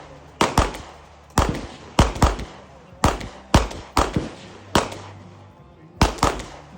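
Gunshots in a rapid string, about eleven, mostly fired in quick pairs a fraction of a second apart, each shot ringing out briefly. The shots are from a competitor firing on a 2-gun competition stage.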